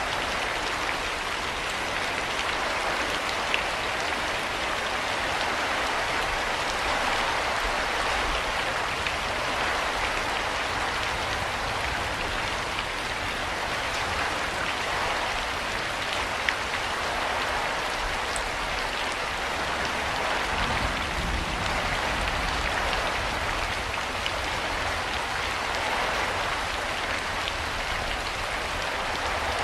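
Steady rain falling, an even hiss with a few distinct drops ticking.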